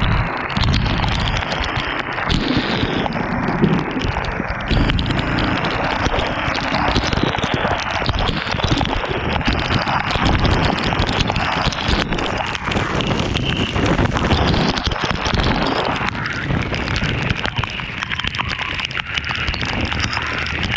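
Wind buffeting and rumbling on the microphone of a motorcycle moving through rain, with rain and road noise mixed in.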